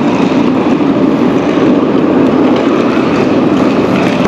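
Steady, loud vehicle running noise with no distinct events.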